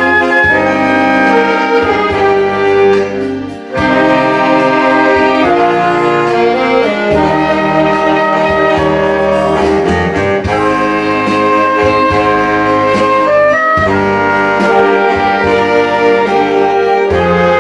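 Saxophone ensemble playing a melody in unison and harmony over an electronic accompaniment-machine backing track. There is a brief drop in sound about three and a half seconds in, a pause between phrases, before the playing resumes.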